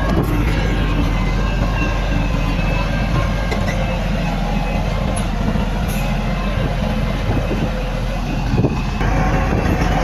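Heavy diesel earthmoving machinery, a bulldozer and dump trucks, running steadily, with a few short metallic clanks.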